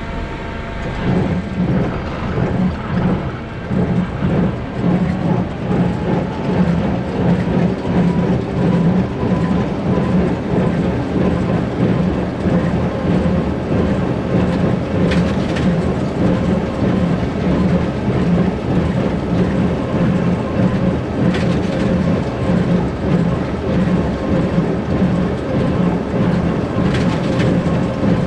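Tractor running a Massey Ferguson 1840 small square baler, the plunger beating steadily about one and a half times a second, getting louder about a second in. A sharp clack comes about every six seconds from the middle on.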